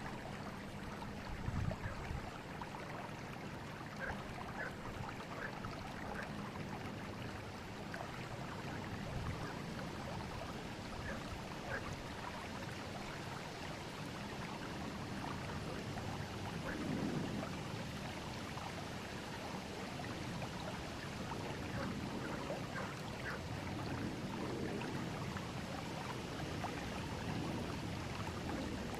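A forest river flowing: steady rushing water with small gurgles and splashes scattered through it, and a slightly louder splash about two seconds in.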